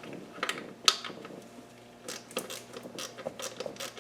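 Light clicks and ticks of hand work on an engine, parts and tools being handled while fitting a bolt or part: one sharper click about a second in, then a run of irregular ticks about three a second.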